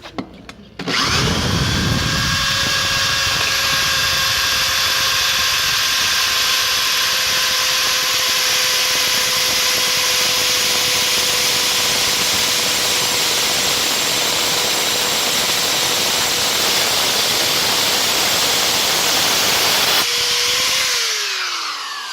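A power drill turns a carbide-tipped tile and glass bit through hard porcelain, run dry with no water or coolant. The drill runs at a steady high whine with grinding for about nineteen seconds, then the trigger is released and the motor winds down in a falling whine near the end.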